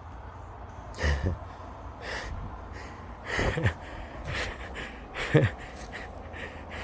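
A person's voice making short, wordless sounds that fall in pitch, about three times, with pauses between them.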